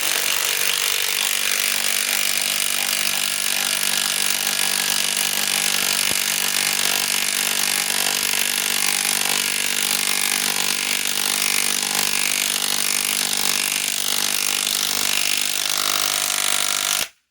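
Bosch GDS18V-330C cordless mid-torque impact wrench hammering without a break as it drives a large lag screw into solid wood. It cuts off suddenly near the end once the lag is driven.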